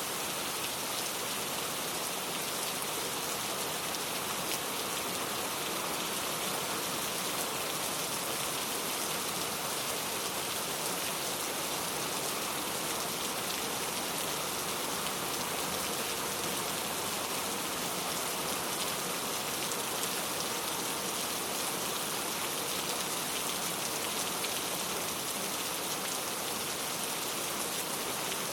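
Steady rain falling, with many fine drops pattering on a surface. It keeps an even level throughout, with no thunder.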